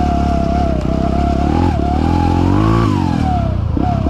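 Trail motorcycle engine running and revving. A high whine climbs to a peak about three seconds in and falls away, then comes again in short falling revs near the end.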